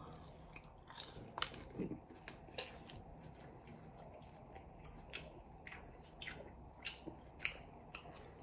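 A person biting and chewing a crisp battered, fried green bean: irregular crunching clicks, a few a second.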